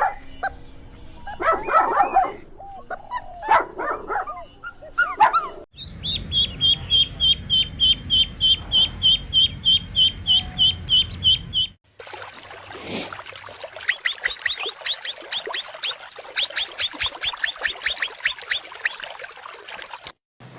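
Animal calls in three runs: a few short, pitched yelping or barking calls, then from about six seconds a high chirp repeated three to four times a second, then after a short gap a second run of thinner, faster chirps.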